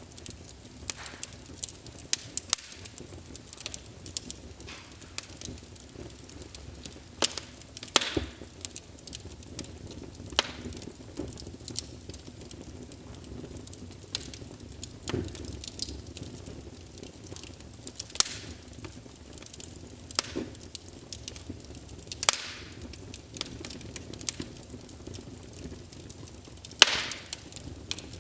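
Wood fire in a fireplace crackling, with sharp, irregular pops every second or so over a soft steady hiss.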